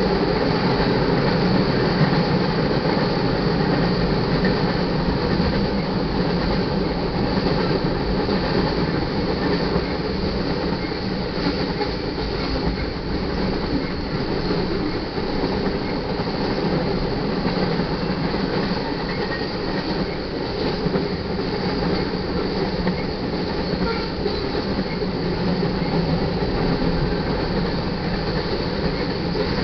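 Freight train cars, tank cars and covered hoppers, rolling past close by: a steady, continuous noise of steel wheels on rail.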